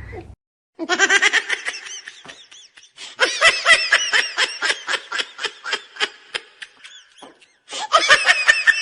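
High-pitched laughter in long runs of short, rapid bursts, with brief breaks between them.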